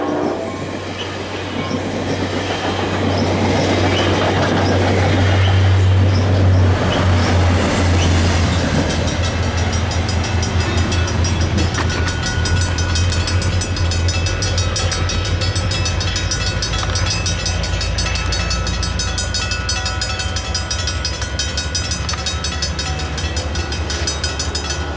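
ACE commuter train passing through a station. The diesel locomotive's engine hum swells past first, then the passenger cars' wheels clatter quickly and evenly over the rail joints for the rest of the pass.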